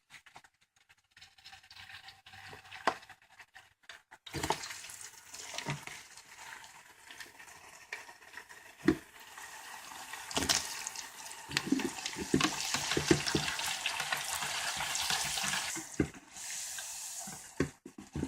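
Potato fries sizzling in a deep fryer's hot oil, the hiss starting a few seconds in and growing strongest past the middle before dropping off near the end, with a few sharp knocks along the way.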